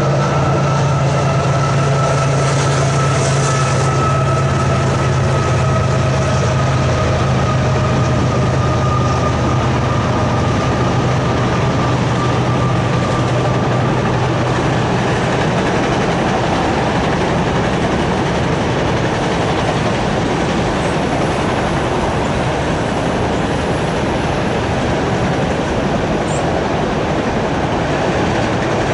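Freight train of enclosed autorack cars rolling past: a steady, loud rumble of steel wheels on rail. A steady droning tone underneath fades out about halfway through.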